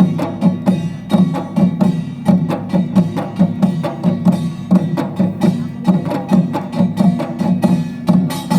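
Utdari-style samulnori: Korean traditional percussion with janggu hourglass drum, buk barrel drum, kkwaenggwari small gong and jing gong playing together in a fast, dense rhythm of strikes.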